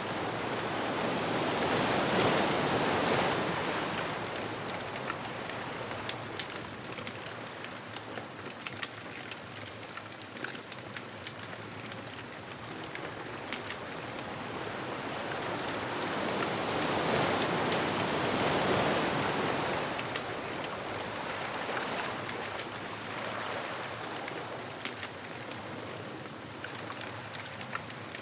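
Ocean waves washing onto a beach, swelling twice, once a few seconds in and again past the middle, with the crackle of a bonfire throughout.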